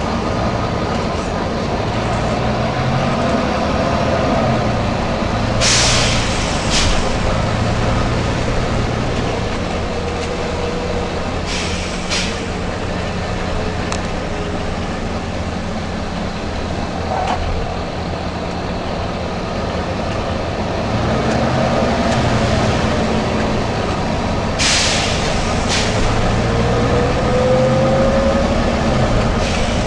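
Volvo B9TL double-decker bus's diesel engine running, its note rising and falling, with short sharp air hisses from the bus's compressed-air system. The hisses come in quick pairs, three times: about six seconds in, about twelve seconds in, and near twenty-five seconds.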